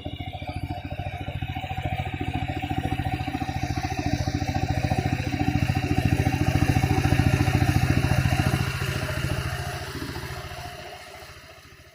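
Mini tractor engine running with a fast, even thudding that grows louder until about eight seconds in, then fades away.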